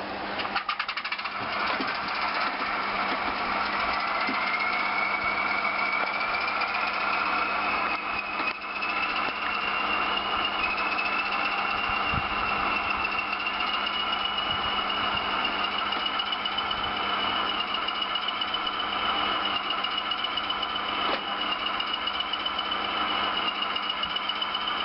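A Class 20 model locomotive's DCC sound decoder plays a diesel engine start-up through the model's small speaker. Rapid clicking at first, then the engine runs up with a whine that rises in pitch over about ten seconds and settles into a steady idle.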